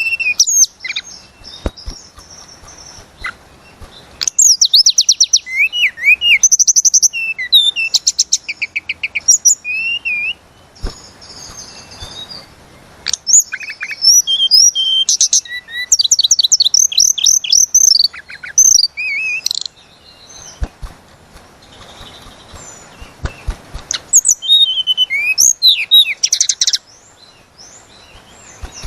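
A tledekan gunung songbird in full song, singing repeated bursts of fast high trills and whistled, sliding phrases with short pauses between them.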